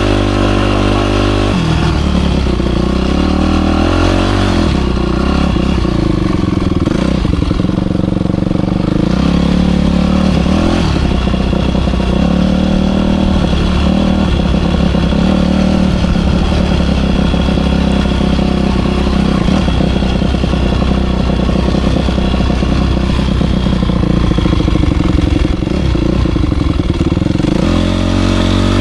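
Motocross bike engine on the track, its pitch rising and falling as the throttle opens and closes through the ride, held at a steady pitch for the first second or so and again near the end.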